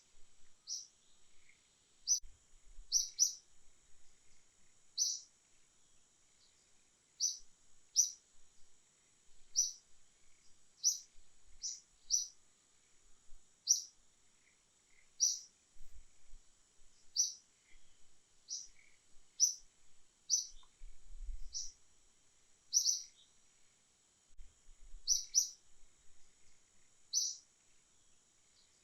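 Short, high-pitched animal chirps repeated every second or two, over a steady high hum.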